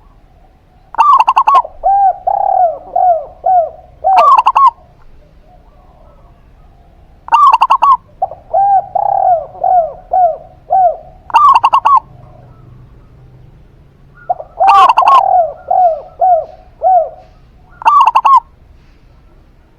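Zebra dove and spotted dove cooing in three bouts. Each bout mixes loud, rough notes with runs of short, quick falling coos, with a few seconds of quiet between bouts.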